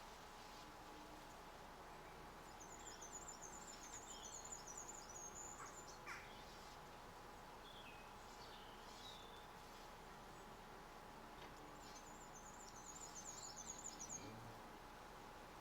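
Small garden songbird singing faintly: two bouts of rapid, very high-pitched chirping lasting a few seconds each, with a few softer calls between them, over a faint steady hum.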